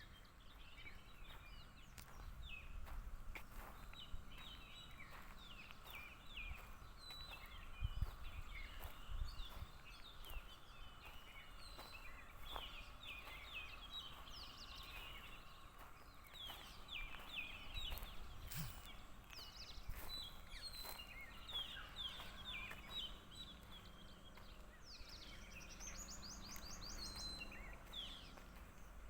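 Morning chorus of many birds, with short chirps and calls overlapping throughout and a fast high trill near the end. A faint low rumble runs underneath.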